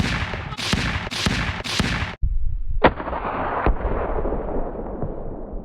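A rapid series of five sharp, shot-like blasts. After a brief cut, one more blast trails off into a long rumble.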